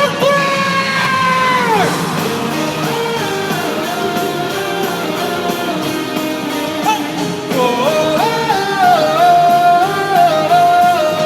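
Live pop-rock band playing with guitars, a singer holding long notes over it at the start and again from about two-thirds of the way through.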